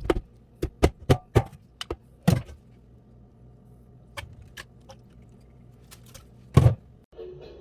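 A string of about a dozen sharp, separate clicks and taps at irregular intervals, the loudest two thirds of the way through, over a low, quiet background. Music with a steady tone starts just before the end.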